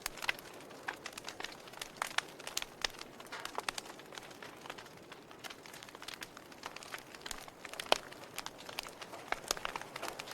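Wood logs burning in a fireplace, crackling with irregular pops and snaps over a soft hiss. The sharpest pop comes about eight seconds in.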